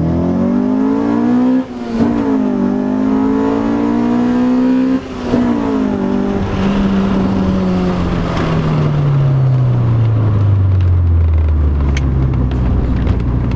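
Honda EK4 Ballade's B16A VTEC four-cylinder engine pulling hard from inside the cabin: revs climb, dip briefly at a gear change about 1.7 seconds in, climb again to a second upshift about 5 seconds in, then fall slowly as the car eases off.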